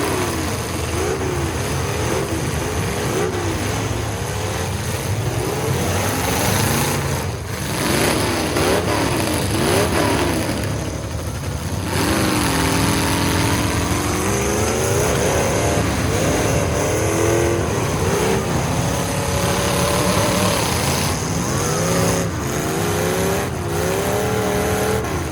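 Several big truck engines revving hard, their pitch climbing and dropping again and again in quick surges, with more than one engine heard at once.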